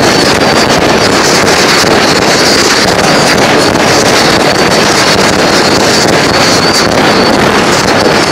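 Two Barbie's Boy firework batteries (cakes) firing at the same time: shots, bursts and crackle run together into one dense, loud, steady din, with no gap between shots.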